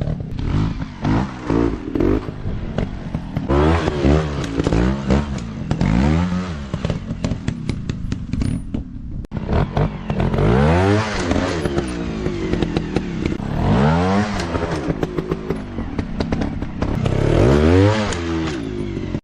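Dirt bike engine revved up and down over and over, the throttle opened and shut every second or two, with clattering mixed in.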